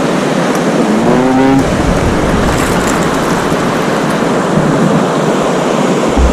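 Whitewater of the Chetco River rushing steadily and loudly, with a short call from a paddler about a second in.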